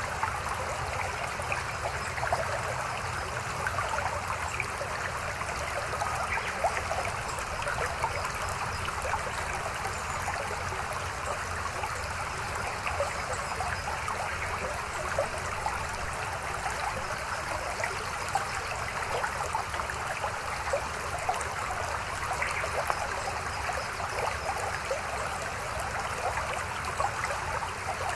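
Babbling stream: a steady rush of flowing water with frequent small splashes and gurgles.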